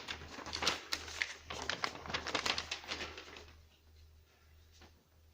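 A paper sheet being handled and unfolded, rustling and crackling irregularly, then dying away after about three and a half seconds. A low steady hum sits underneath.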